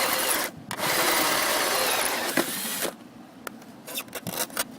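Drill with a hole saw cutting an entrance hole through wood, running with a short break about half a second in, then stopping about three seconds in; a few light knocks follow.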